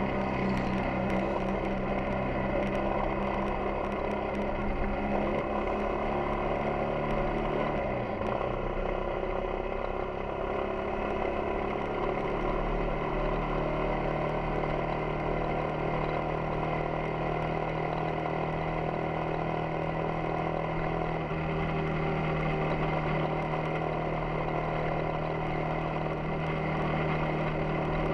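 Yamaha XTZ 250 Ténéré's single-cylinder four-stroke engine running steadily while riding. Its note dips about eight seconds in and settles on a new steady pitch a few seconds later.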